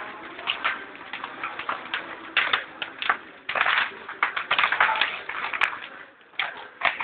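Bonfire burning, crackling and popping with a dense, irregular run of sharp cracks.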